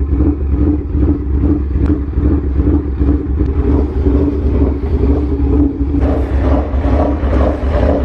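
Aprilia superbike engine running with a loud, steady, pulsing note. About six seconds in it turns rougher and brighter.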